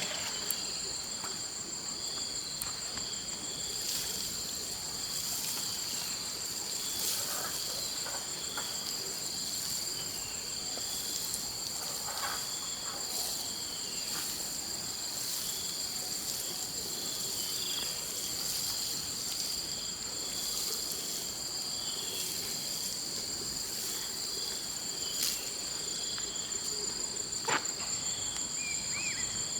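Insects chirring steadily at two high pitches, with a few faint knocks and a sharp click near the end.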